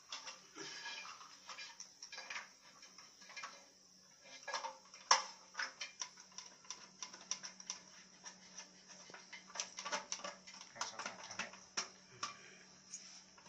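Irregular clicking and knocking of plastic toilet-cistern flush mechanism parts being handled and fitted, with one sharper knock about five seconds in, over a faint steady hum.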